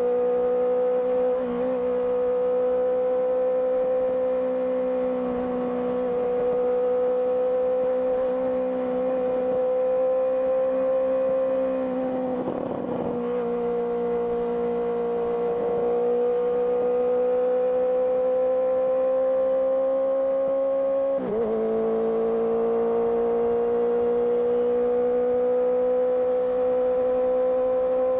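Honda CBR650R's inline-four engine running through an aftermarket IXIL IXRACE exhaust while riding, its note rising and falling gently with the throttle. About three-quarters of the way through, the pitch drops suddenly and then climbs again, as at an upshift.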